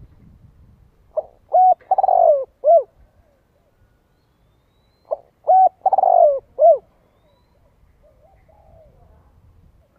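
Spotted dove cooing: two phrases about four seconds apart, each of two short coos, a longer falling coo and a short closing coo.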